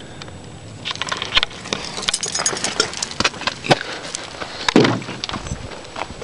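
Irregular clicks, taps and rustles of someone moving about and handling the camera, with one short low sound about five seconds in.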